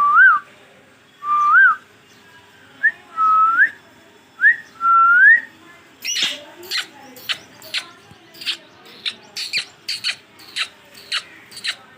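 Green ringneck parrot whistling a short gliding note four times, each one a rise and fall or a scooping rise, then a quick run of about fifteen sharp clicks in the second half.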